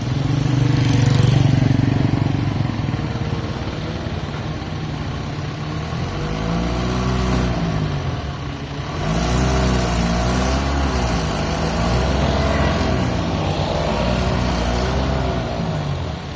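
An engine running under changing load, its pitch rising and falling in repeated swells about once every second or two.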